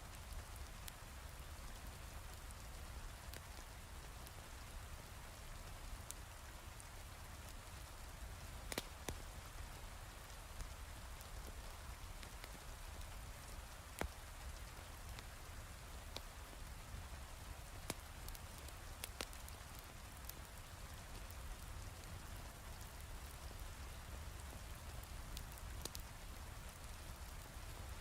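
Heavy rain falling steadily as an even hiss with a low rumble, mixed with a few sharp pops from a crackling fireplace.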